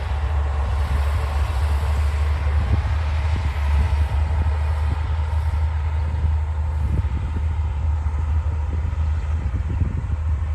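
Komatsu D60 crawler bulldozer's diesel engine running steadily with a deep, even rumble, with irregular short knocks over it.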